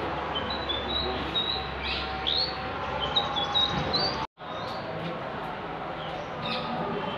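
Small birds chirping over and over, short high chirps over a steady background hubbub, with a brief break in the sound about four seconds in.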